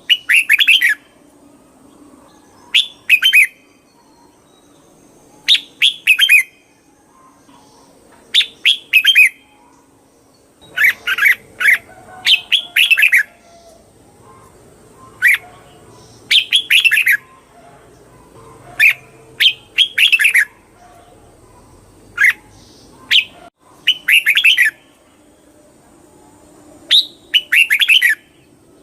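Red-whiskered bulbul singing: short, bright song phrases of about a second each, repeated every two to three seconds.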